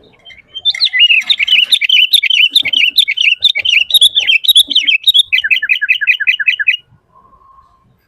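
Sooty-headed bulbul singing a long, rapid, chattering song of varied notes, ending in a quick run of about a dozen evenly repeated notes before it stops.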